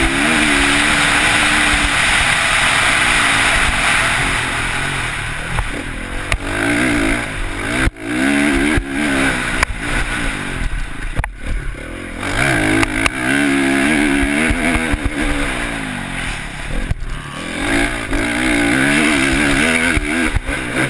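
Dirt bike engine revving hard and rising and falling in pitch as the throttle is worked and gears change, with brief throttle chops about 8, 11 and 17 seconds in. A steady rush of wind over the helmet camera runs underneath.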